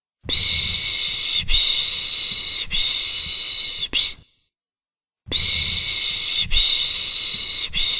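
A person shushing to soothe a baby, a loud 'shhh' repeated in a steady rhythm: three long shushes of about a second each and a short one, a pause of about a second, then the same pattern again.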